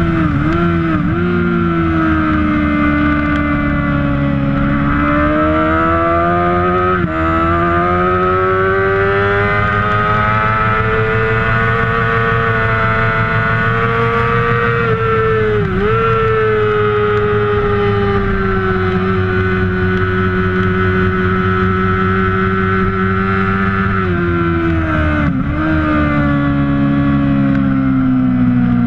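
Kawasaki 600cc supersport race motorcycle engine running hard at high revs, its pitch rising and falling with the throttle. Several brief, sharp dips in pitch come at gear changes.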